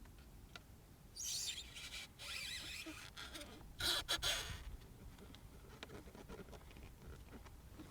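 Three short bursts of rustling and scraping, a second or so apart, from handling and pressing a carbon fiber dash trim piece with its tape backing, with a few faint ticks between.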